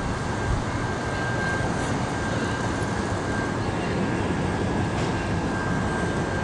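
Canadian National freight train of tank cars rolling through a level crossing: a steady rumble of wheels on rail, with a thin steady high tone held above it.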